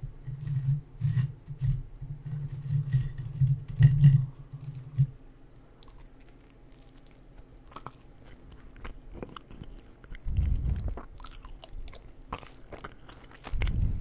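Close-miked chewing of crisp fried food (pizza and onion rings), with rhythmic chewing for about five seconds. After a quieter pause come crunchy bites with small crisp clicks and two low thuds.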